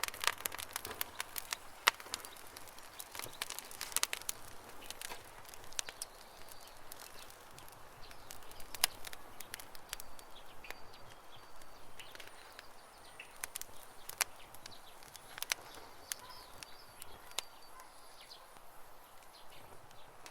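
Campfire crackling, with frequent sharp pops that are thickest in the first few seconds. Birds chirp faintly in the background, mostly in the second half.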